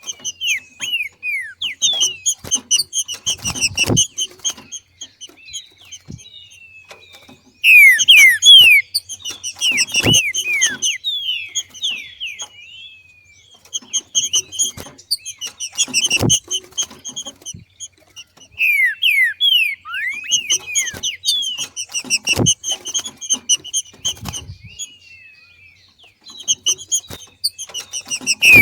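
Green-winged saltator (trinca-ferro) giving its 'macheando' breeding-season call: bouts of quick, downward-sweeping chirps that come about every six seconds. Four of the bouts end with a short low thump.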